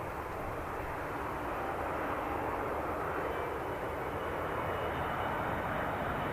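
Airliner engines: a steady rushing noise with a faint whine, slowly growing louder as the aircraft comes closer.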